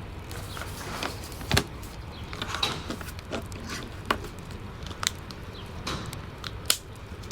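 Wood fire crackling in a fireplace: irregular sharp pops and snaps over a steady low rumble, one louder pop about a second and a half in.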